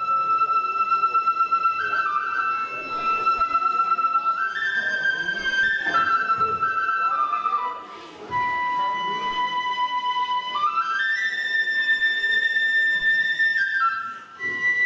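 Kagura music: a Japanese transverse bamboo flute (kagura-bue) playing a slow melody of long held notes over a busy percussive backing. The flute breaks off briefly about eight seconds in and again near the end.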